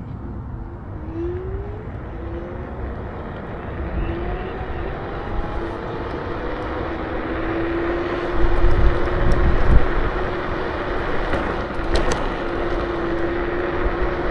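KuKirin G2 electric scooter's motor whining, rising in pitch as the scooter picks up speed and then holding a steady tone at cruising speed. Wind rumble on the microphone underneath, loudest about two-thirds of the way in.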